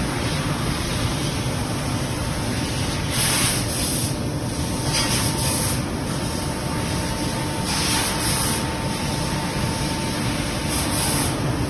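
Fiber laser cutting machine working sheet metal: a steady rushing hiss of gas and machine noise, with louder bursts of high hiss about every two and a half to three seconds, and a faint steady whine through the middle.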